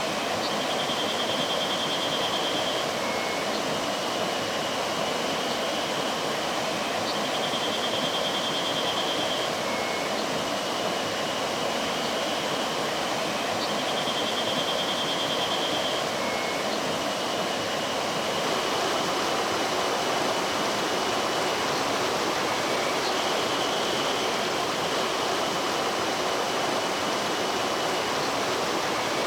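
Mountain stream flowing steadily over rocks. A high, trilling call of about two seconds repeats every six or seven seconds over the water, each followed by a short lower note.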